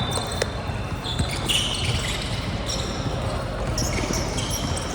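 Basketball game on an indoor court: the ball bouncing on the floor and sneakers squeaking in short, high-pitched chirps, over steady crowd noise.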